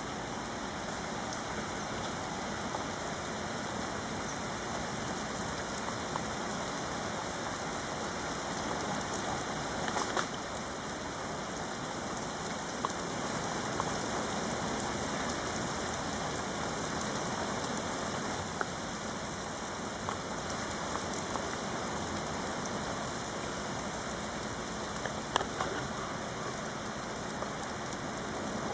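Heavy rain falling steadily in a thunderstorm, with a few sharper drip clicks now and then.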